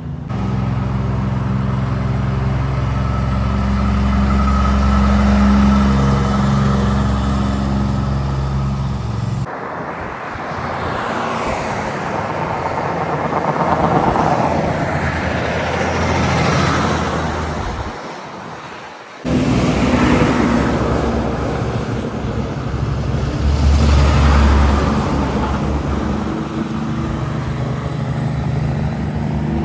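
Heavy trucks on the road in three short clips. First a truck engine runs with a steady low hum. Then a truck passes, its engine and tyre noise swelling and fading away. Then another passes with its engine hum, loudest about two thirds of the way through.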